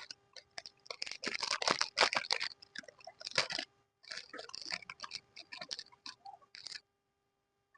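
Close-up crisp crunching and crackling of a canelé's caramelised crust being bitten and chewed, in two runs of rapid crackles separated by a brief pause.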